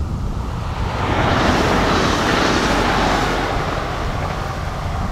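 SNCF AGC regional multiple unit passing close by at speed: a rising rush of wheel and air noise that peaks about a second and a half in and then eases a little as the train goes by.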